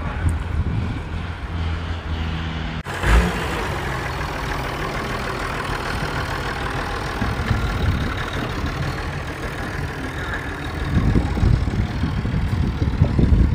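Tractor engines running. A steady, even engine note breaks off suddenly about three seconds in with a thump, then gives way to a rougher, noisier engine sound that grows louder near the end.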